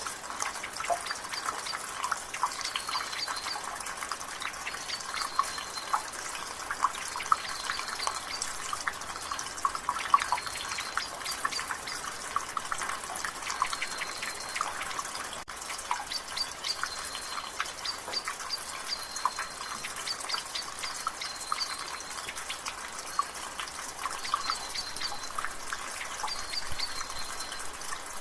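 Rain drizzling and water dripping and splashing from a gutter: a steady patter with many irregular drops. Behind it a bird repeats a short high note every two or three seconds.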